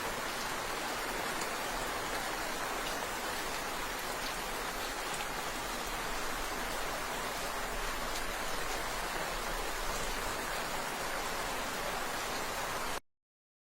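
Steady rain falling, an even hiss with scattered drop ticks, which cuts off abruptly near the end.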